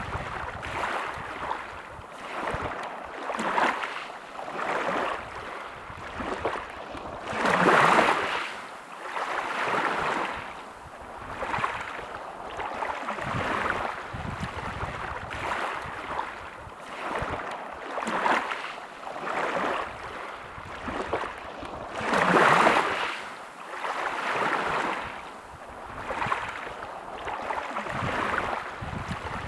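Sea waves washing on the shore: a rushing wash of surf that swells and fades every second or two. Twice a larger wave breaks with a louder rush.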